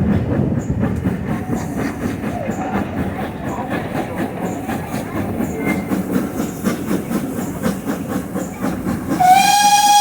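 A steam train running, a steady rumble with a regular beat. Near the end the locomotive's steam whistle sounds one long blast, rising briefly in pitch at first and then holding.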